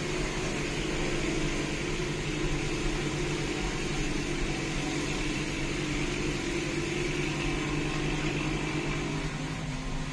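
Steady engine drone and tyre noise heard inside the cabin of a car being towed at night behind a kulong-kulong motorcycle cart. The engine note drops slightly near the end.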